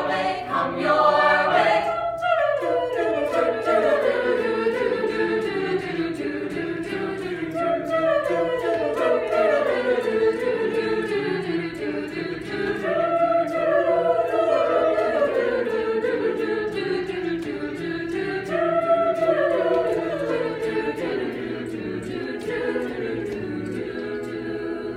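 A choir singing a cappella in close harmony, with melodic phrases that sweep downward and repeat; the singing fades away near the end.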